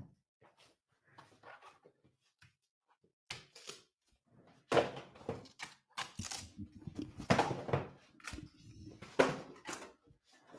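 A football fan reacting to a goal conceded: wordless cries and groans of dismay mixed with a few thumps, starting quietly and getting louder about five seconds in.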